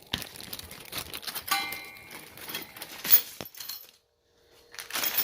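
Small metal hardware, exhaust clamps with their nuts and bolts, clinking and rattling as it is handled, with a short ringing clink and then a sharp louder clink about three seconds in. The sound drops out briefly a little after four seconds.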